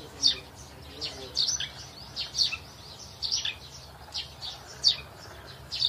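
Small birds chirping: short, sharp, falling chirps about two a second, irregular and sometimes in quick pairs.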